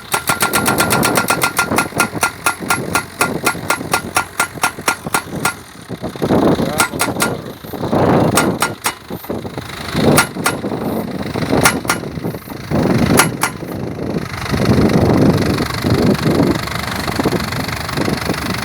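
Hengxing Jinqiao guardrail pile driver hammering a post: a fast, even run of sharp metallic blows that slows over the first five seconds or so, then a few scattered single strikes. Near the end the blows stop and the machine's engine runs on.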